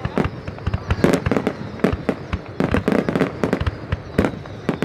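Fireworks display: a rapid, irregular barrage of bangs and crackling reports from bursting shells, several a second, with a cluster of the loudest bangs about a second in.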